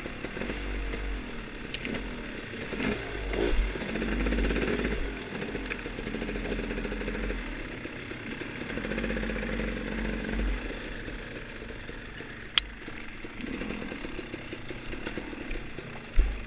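Off-road dirt bike engine ridden through woods, revving up and down with the throttle. A single sharp knock comes about twelve seconds in, and a dull thump near the end.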